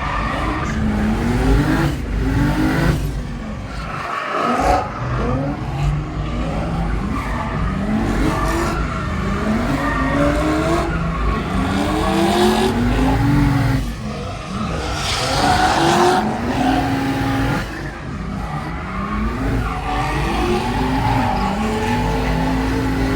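Turbocharged 2JZ-GTE inline-six in a swapped Hyundai Genesis Coupe, drifting: the engine revs up and drops back over and over, with tyre squeal and skidding under it.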